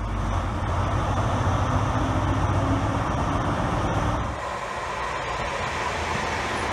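Diesel engine of an HST Class 43 power car running with a steady low hum at a platform. About four seconds in the sound changes abruptly to a passenger multiple unit rolling past with wheel and track noise.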